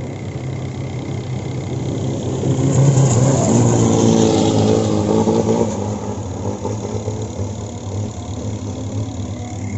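Common-rail diesel engine of a Thai long-tail boat running. The revs rise about three seconds in, hold for a couple of seconds, then drop back to a steady lower speed.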